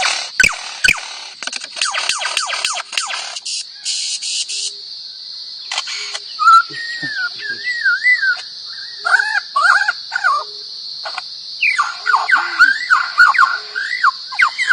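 A lyrebird mimicking: first a fast, even run of mechanical clicks, several a second, which stops about three and a half seconds in. Then, over a steady high buzz, it gives whistled warbling phrases that glide up and down.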